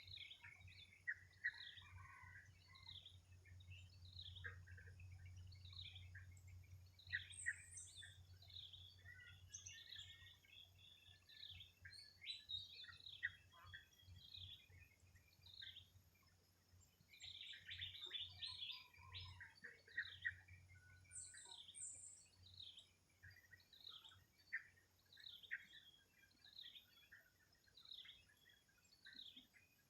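Faint chorus of several small birds, one repeating a short chirp about once a second while others call over it, most thickly around the middle of the stretch.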